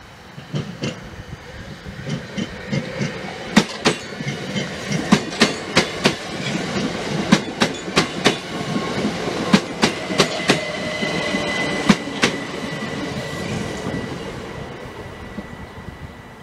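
Southern multiple-unit passenger train passing close by on the near track, its wheels giving runs of sharp clacks over the rail joints and points. The rumble builds as it comes, with a thin steady whine in its later part, then fades as it goes away.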